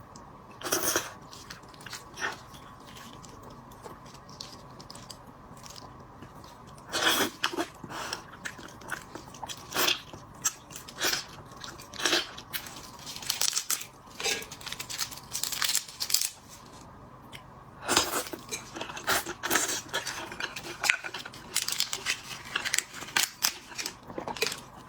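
Close-miked eating of braised shrimp: crisp crunching of shell and chewing in irregular bursts, with a quiet pause of a few seconds near the start.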